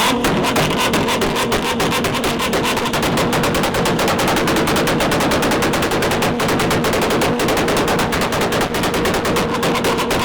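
Car engine held on a two-step launch limiter, bouncing off the rev limiter at a steady high rpm, with a rapid, machine-gun-like string of exhaust pops and bangs.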